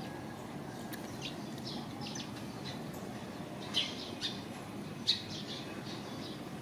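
Small birds chirping: short, high chirps scattered through, the loudest two near the middle and about five seconds in, over a steady low background hum.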